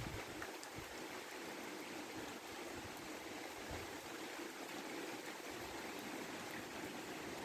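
Steady rain falling, a continuous even hiss with a few faint ticks of drops.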